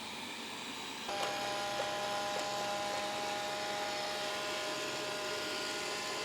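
Robot vacuum cleaner running, a steady fan hiss. About a second in it gets louder and a steady motor whine joins it.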